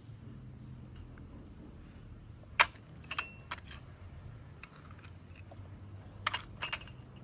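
Hard objects clinking and knocking together. There is one sharp clink about two and a half seconds in, the loudest, a few lighter ones just after, and a quick pair a little after six seconds, over a low steady hum.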